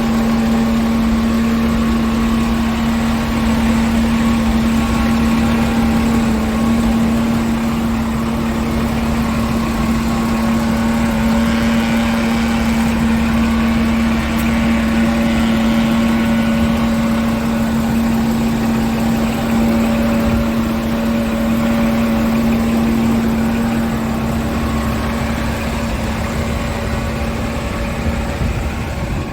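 Scania R tractor unit's diesel engine idling steadily, with an even hum that does not change.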